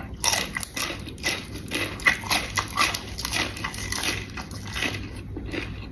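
A person chewing a mouthful of spicy seafood papaya salad close to the microphone, with many quick mouth clicks, smacks and crunches.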